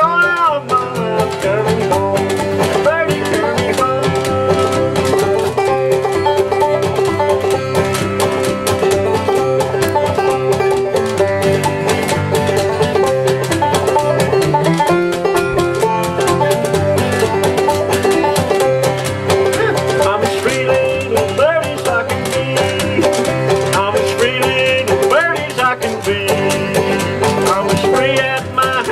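Five-string banjo and acoustic guitar playing an old-time Appalachian tune together, with steady, continuous picking.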